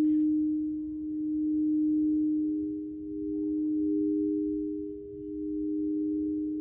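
Singing bowl sounding a sustained low tone with a fainter higher overtone. Its loudness swells and fades slowly, about every two seconds.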